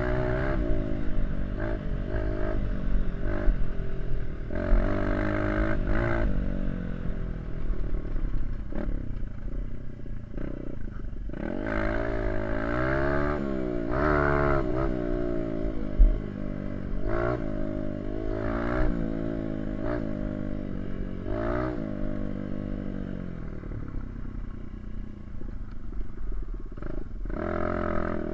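Small dirt bike engine under way, its pitch climbing and dropping again and again as the throttle is opened and closed through the gears. A single sharp knock comes about sixteen seconds in.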